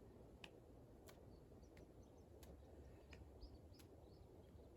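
Faint, regular slaps of a D-Ball medicine ball hitting the palms as it is passed from hand to hand around the body, about three every two seconds. A few faint bird chirps are heard.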